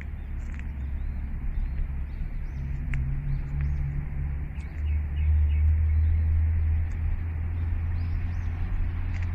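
A steady low rumble, louder for a couple of seconds about five seconds in, with faint bird chirps over it.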